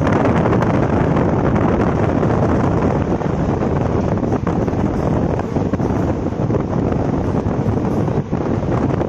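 Wind rushing over the microphone at the open door of a moving passenger train, over the steady noise of the coaches running on the track.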